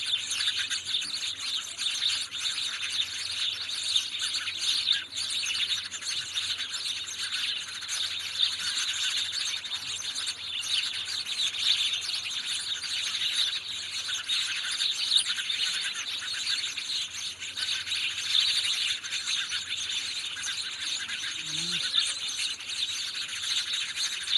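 A flock of house sparrows chirping, many high calls overlapping in a steady, busy chatter.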